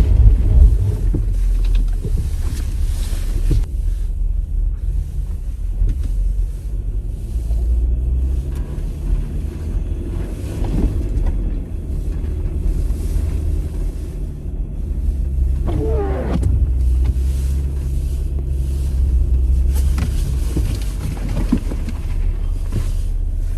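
Jeep Wrangler engine running with a steady low rumble.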